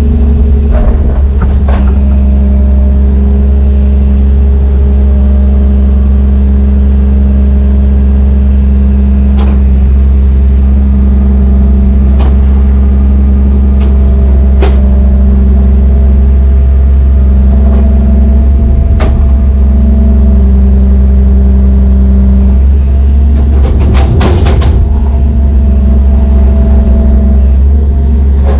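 Heavy diesel engine running steadily under load with a deep, loud drone. Several sharp metallic knocks sound over it, with a cluster of them near the end.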